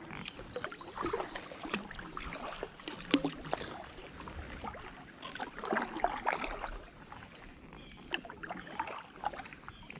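Kayak paddling: irregular splashes of the paddle blades in the water and knocks of the paddle against the kayak's hull.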